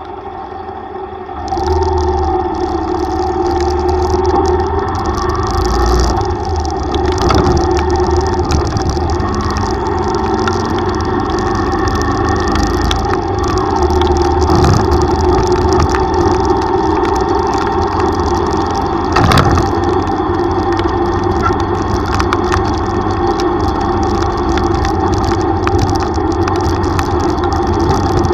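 Yamaha YTX125 motorcycle's single-cylinder four-stroke engine running steadily while riding, growing louder about a second and a half in.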